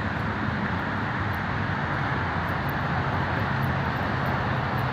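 Steady low hum of a running vehicle engine under a constant hiss of road traffic noise.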